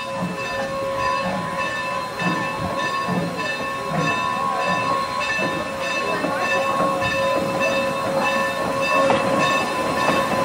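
Steam train running, with a steady high tone throughout and low beats about once a second.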